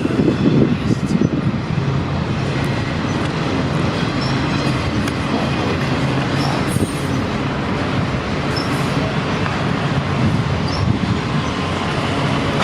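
CPKC freight train's cars rolling past, a steady rumble of steel wheels on rail with a few faint squeals.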